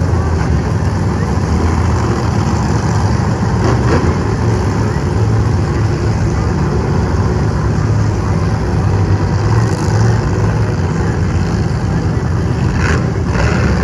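Monster truck engine running loud and steady, a deep drone with no sharp revs.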